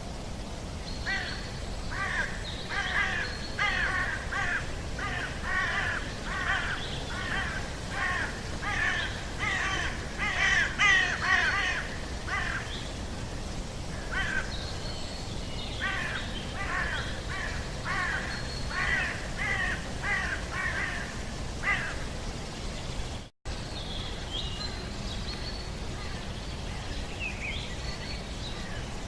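A bird calling in a long series of harsh, caw-like calls, about two a second, over a steady low background noise. The calls pause briefly midway, the sound cuts out for an instant later on, and a few fainter, higher calls follow.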